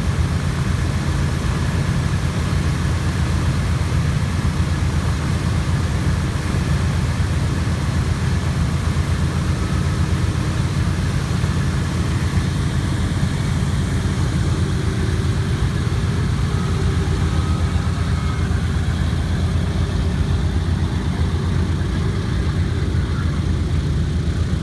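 Boeing B-17 Flying Fortress's four Wright R-1820 Cyclone radial engines running at low power while the bomber taxis: a steady, low engine sound with a fast, even pulse.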